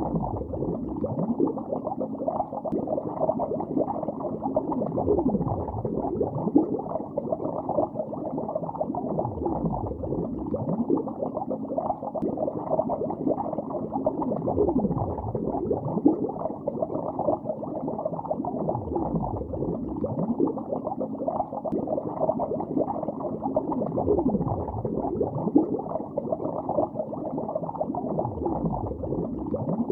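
Steady underwater bubbling, muffled and dull, made up of many small quick bubble pops. A slow sweep dips down and rises back about every five seconds.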